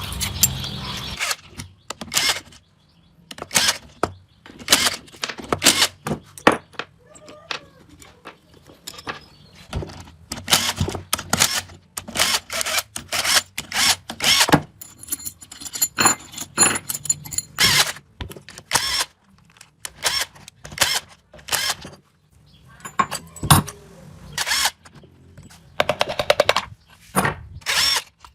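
Irregular sharp knocks, taps and clinks, like hand tools and metal motorcycle parts being handled and set down, with a brief faint metallic ringing about halfway through.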